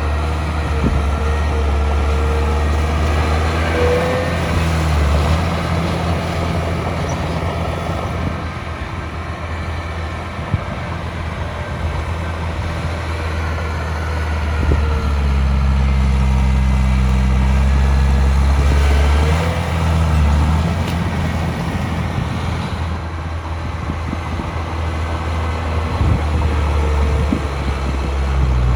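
Heavy diesel engine of earthmoving machinery working, its note and load rising and easing off every several seconds. A thin whine bends briefly a few times over the engine.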